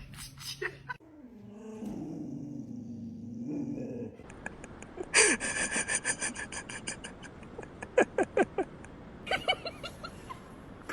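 Boxer dog vocalizing: a low, drawn-out grumble for about three seconds, then an irregular run of short clicks and squeaks.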